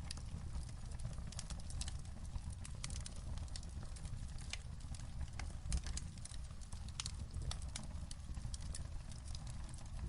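Wood fire burning in a fireplace, crackling with irregular sharp pops and snaps, several a second, over a steady low rumble.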